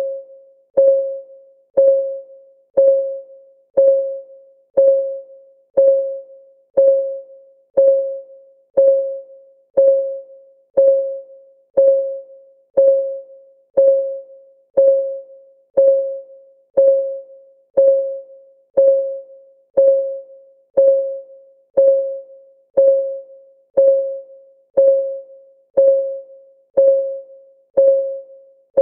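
Digital countdown timer's tick sound: a short pitched electronic tick struck once a second, each one fading quickly, in an even unbroken rhythm.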